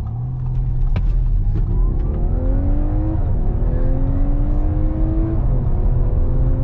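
Audi A5 accelerating hard from a standstill in Dynamic mode. The engine note climbs and drops at an upshift about three seconds in. It climbs again, drops at a second upshift about five seconds in, then rises once more.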